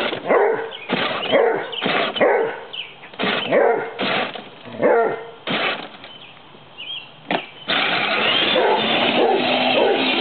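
Hound dog barking repeatedly, a short bark about every half second. About three-quarters of the way in, a steady rushing noise sets in under the barking.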